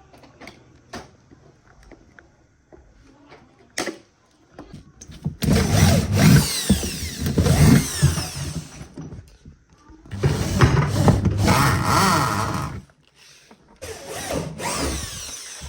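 A hand-held electric power tool runs in three bursts, the first two several seconds long and a shorter one near the end, after a few light clicks and knocks of parts being handled.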